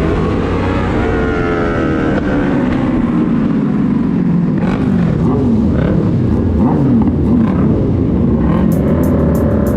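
Motorcycle engine running under way, its pitch rising and falling repeatedly as the throttle and speed change.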